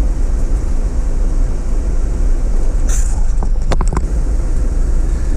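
Steady low drone of road and engine noise inside a moving vehicle's cabin, with a few short sharp clicks about three and a half to four seconds in.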